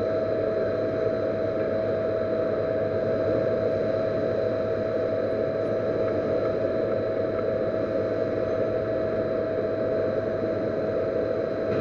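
Metal lathe running steadily with a constant whine, turning the bearing seat on a FANUC servo motor part.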